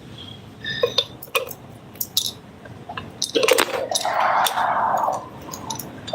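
Metal clicks and short ringing clinks from a bike lock and keys being handled, with a louder scraping rustle about four seconds in.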